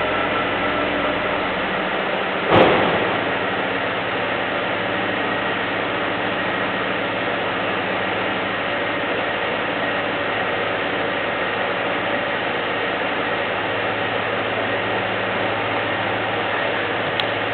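Mercedes C-Class with the AMG package exhaust idling steadily. One sharp thump sounds about two and a half seconds in.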